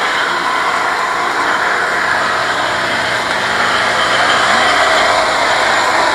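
A motor vehicle's engine running steadily, a low hum under a wash of street noise.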